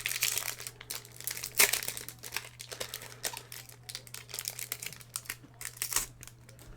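Foil wrapper of a Pokémon booster pack crinkling as it is torn open by hand: a quick run of crackles, loudest about one and a half seconds in, thinning out near the end.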